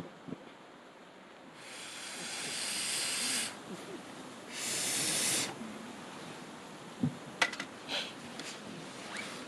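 Wood campfire: two loud hissing bursts, the first swelling for nearly two seconds and the second about a second long, then a few sharp crackling pops of burning wood near the end.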